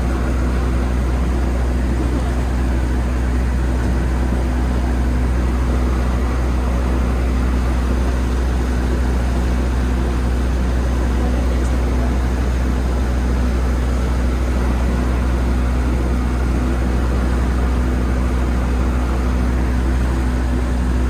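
Boat engine running at a steady cruise, a constant low drone heard from on board, with a rushing hiss of water and wind over it.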